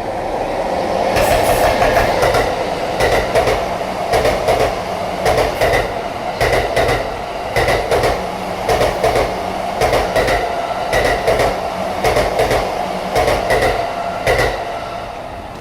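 Train made up of an EF64 electric locomotive and unpowered E235 series cars passing at speed: a steady rolling rumble with heavy joint clatter, pairs of wheel clacks over the rail joints about once a second. It builds as the train arrives and fades near the end as the last cars pass.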